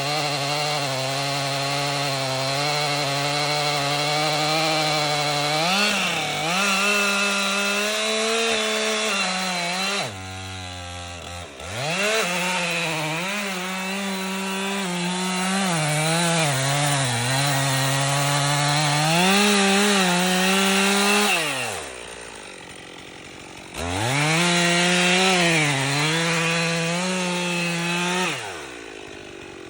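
Two-stroke chainsaw running at full throttle and cutting into a tree trunk, its pitch sagging and recovering as the chain bites. It drops back to idle about ten seconds in and again about two-thirds through, revving up again each time, and falls off near the end.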